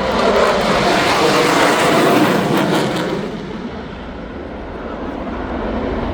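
Military jet fighter passing overhead: a loud jet roar through the first three seconds that fades away, then slowly builds again near the end.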